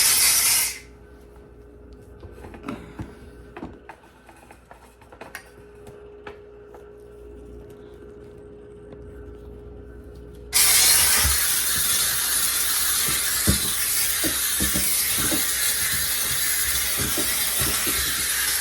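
McCulloch steam cleaner jetting steam: a brief hiss at the start, then scattered light rubbing and clicks while it is off, then a steady steam hiss from about ten seconds in, with small knocks of the nozzle against the refrigerator rack.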